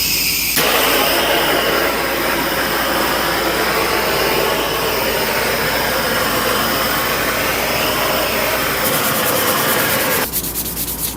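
Propane torch flame hissing steadily as it scorches a wooden hammer handle, then cutting off about ten seconds in.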